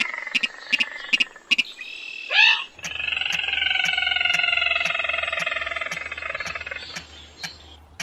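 Crake call from a lure recording: long, drawn-out calls of several stacked tones that slowly fall in pitch, with a short, loud rising note about two and a half seconds in. A regular ticking, about two or three a second, runs underneath.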